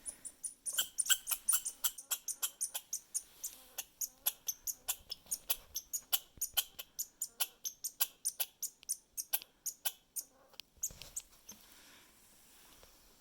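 Red squirrel making a rapid, even run of sharp high clicks, about five a second, that stops about eleven seconds in.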